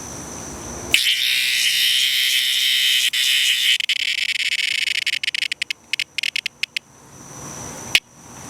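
Cicada giving its distress call: a loud, harsh buzz that starts suddenly about a second in, then breaks into stuttering pulses and dies away. A single sharp click comes near the end.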